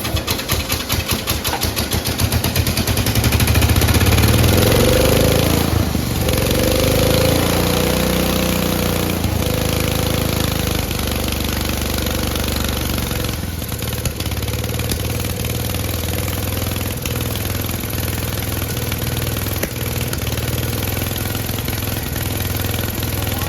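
Cub Cadet lawn tractor engine pulsing unevenly at first, then picking up a few seconds in, its speed rising and falling briefly before it settles into steady running.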